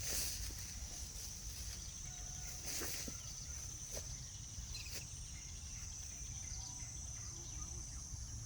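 Insects trilling steadily in a high, unbroken drone over a low rumble of outdoor background noise, with a few faint short chirps here and there.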